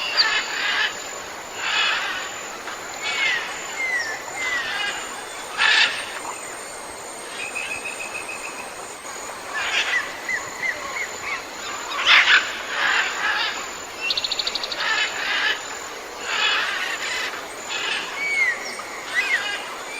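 Mixed chorus of wild birds calling: short down-slurred whistles, chattering calls and a couple of fast trills.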